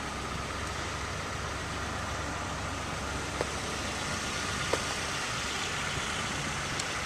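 Steady background hum of motor vehicle noise, with two faint clicks, one about three and a half seconds in and one just under five seconds in.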